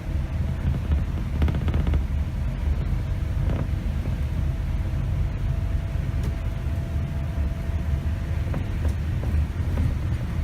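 Interior noise of a 2008 Scania K270 city bus on the move: the rear-mounted diesel engine's steady low rumble mixed with road noise, with a faint steady whine over it. A short cluster of rattles comes about one and a half seconds in.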